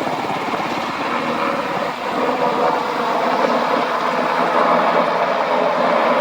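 US Army UH-60 Black Hawk helicopter in flight: the rapid, even chop of its rotor blades over the steady drone of its turbines. It grows a little louder about two seconds in.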